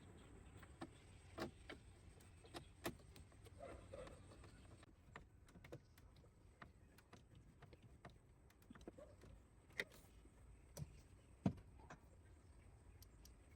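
Near silence broken by scattered faint clicks and light taps at irregular times, the sharpest one about eleven and a half seconds in.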